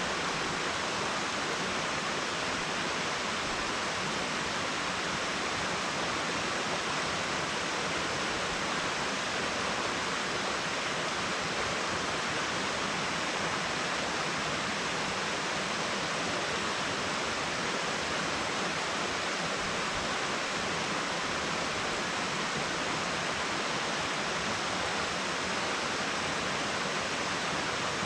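Steady, unbroken rush of running water, even in level throughout.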